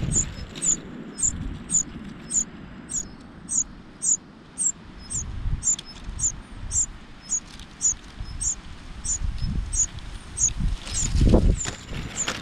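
Cuckoo nestling begging: a steady series of short, very high calls, about two and a half a second. A low rumble comes in near the end.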